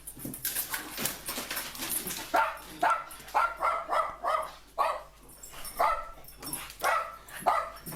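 Small dog barking in a rapid series of short, high yaps, starting about two seconds in, after a noisy, scuffling start.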